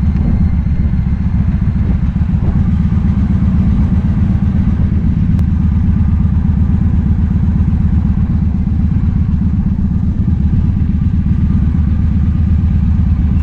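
Motorcycle engine running steadily under way: the 2007 Victory Vegas's V-twin, a loud, even low drone that holds for the whole stretch without revving up or down.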